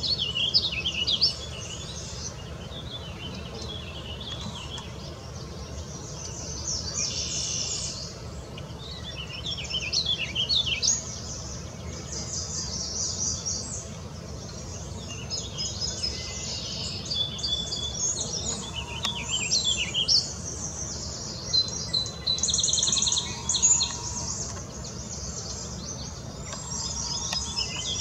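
Birds chirping and calling, many short high chirps with a couple of rapid trills, over a steady low background noise.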